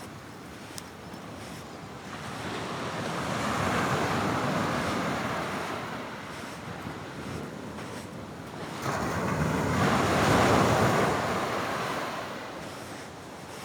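Atlantic waves breaking and washing on the shore, twice: the first swelling a couple of seconds in and ebbing away, the second, louder one, rising abruptly past the middle and washing back out over a few seconds.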